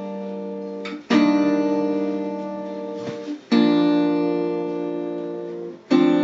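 Acoustic guitar strumming chords slowly. Each chord is struck once and left to ring and fade for about two seconds before the next, three strums in all.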